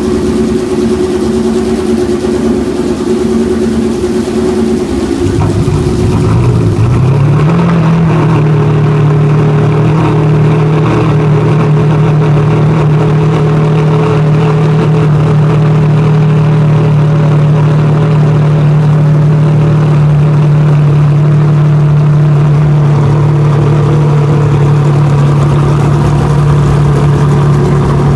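Ferrari Enzo's V12 engine running at a steady idle. About six seconds in the note changes: it drops, then climbs a little, gets louder, and holds steady from then on.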